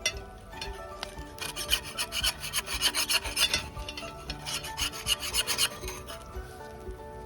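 Rapid, rhythmic scraping strokes of a utensil during food preparation, about four a second. They start about a second and a half in and stop near the end.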